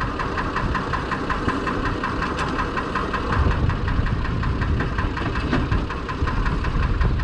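Perkins straight-six diesel engine in a Fordson Major tractor running steadily, with an even, regular knock of its firing pulses.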